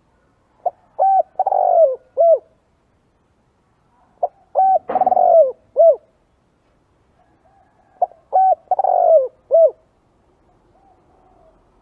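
Spotted dove cooing: three repeated song phrases a few seconds apart, each a few short coos around a longer falling one, with fainter coos between them.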